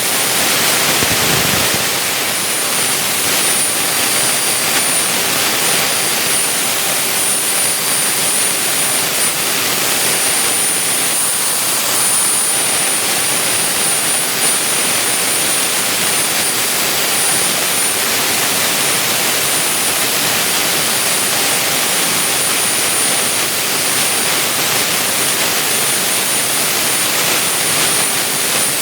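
Vertical 3-axis CNC milling machine running: a steady loud hiss with a thin, high-pitched whine held throughout.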